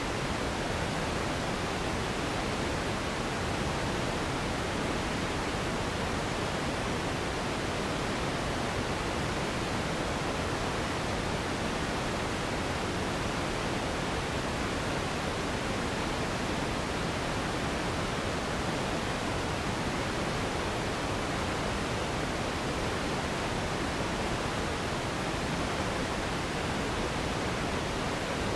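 Steady pink noise: an even, unchanging hiss with no rhythm or events, played as a relaxation and sleep sound.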